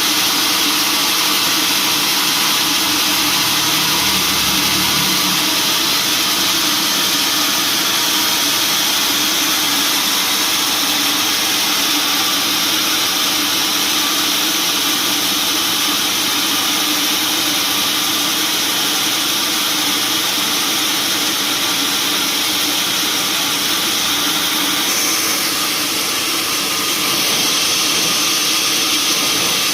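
Sawmill machinery running steadily, a continuous loud mechanical noise with a hissing upper band that shifts about 25 seconds in.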